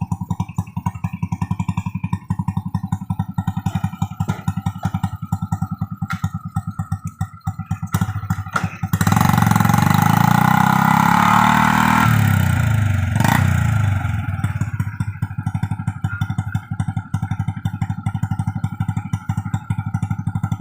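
Single-cylinder Honda Revo motorcycle engine of a homemade vehicle running with a fast, even pulse, revved up for a few seconds about nine seconds in and then dropping back to idle. Guitar music plays underneath.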